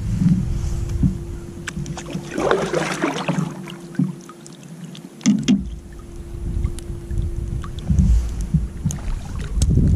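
Wind buffeting the microphone, with water splashing and sloshing around a kayak in bursts; the longest splash comes about two and a half seconds in.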